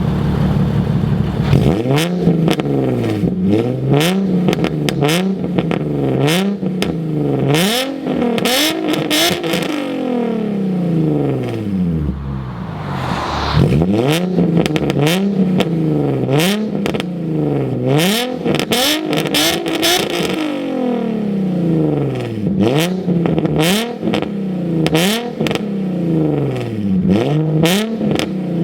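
Nissan 350Z's VQ35HR V6 through a Tomei Expreme Ti exhaust, revved over and over while parked. Each rev rises quickly and falls back, about one every one and a half to two seconds, with crackles and pops as the revs drop. It is really loud.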